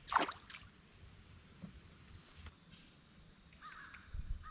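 Outdoor ambience: a steady high insect buzz sets in about halfway through, and near the end a crow starts cawing, short caws repeated about every half second. A brief sound comes right at the start.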